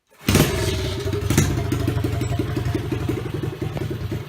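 125cc Lifan single-cylinder four-stroke pitbike engine with its exhaust cut off, running at idle with a rapid, even firing pulse. It cuts in suddenly about a quarter of a second in.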